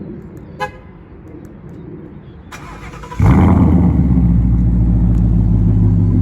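A short beep, then the 2017 Mustang GT's 5.0 Coyote V8 is cranked and fires about three seconds in, running with the muffler deleted. It settles into a loud, steady, deep idle.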